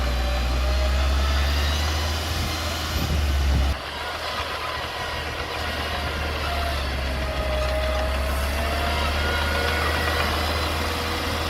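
Diesel engine of a Komatsu mini bulldozer running steadily, with thin wavering high squeals over its low hum. The engine sound drops suddenly in loudness about four seconds in, then carries on.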